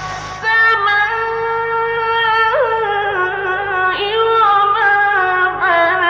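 A male Quran reciter draws out long melodic notes in the ornamented mujawwad style. The notes waver and slide in pitch, with a short breath at the start.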